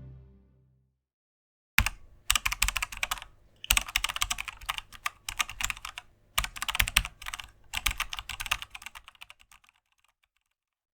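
Typing on a computer keyboard: rapid key clicks in several bursts with short pauses, trailing off near the end. Music fades out just before the typing starts.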